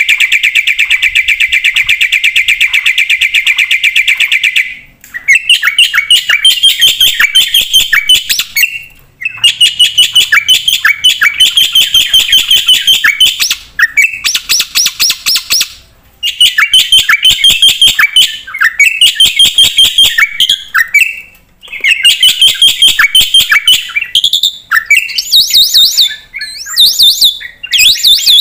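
Jalak putih (black-winged myna) singing hard in full song with mimicked fills: loud phrases of rapid repeated chirping notes, each lasting a few seconds, broken by brief pauses.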